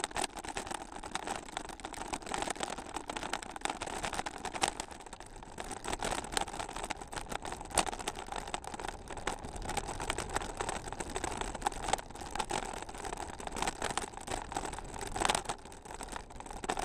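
Continuous rattling and knocking of a camera mount jolting over a rough trail surface during a ride, with many small sharp knocks and a few harder jolts.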